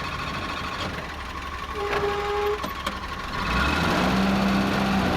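Willys Jeep engine running on the move, getting louder about three and a half seconds in as it pulls harder, with a brief high tone about two seconds in.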